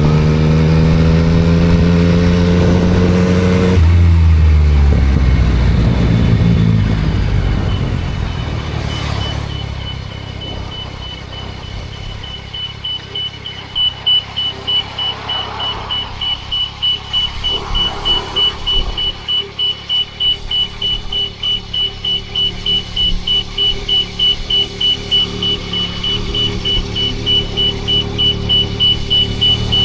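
Yamaha MT-09 SP's three-cylinder engine through a Spark aftermarket exhaust pulling with rising revs. After a few seconds the revs drop and it settles to a low idle. From about halfway a high electronic beep repeats a little under twice a second over the idling engine.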